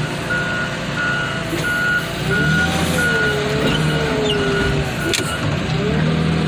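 Backup alarm of a working machine beeping steadily, about one and a half beeps a second, over its running engine. About two and a half seconds in, the engine comes up under load with a wavering whine, and the beeping stops near the end.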